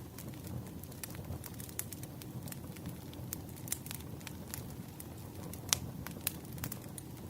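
Wood fire crackling in a fireplace: a steady low rumble of flames with scattered sharp pops and snaps, the loudest pop a little past the middle.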